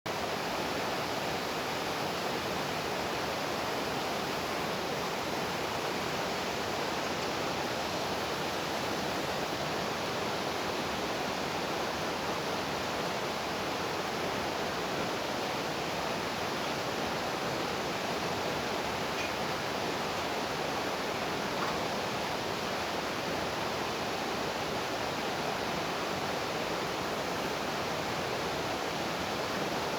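Mountain valley stream flowing: a steady, unbroken sound of running water.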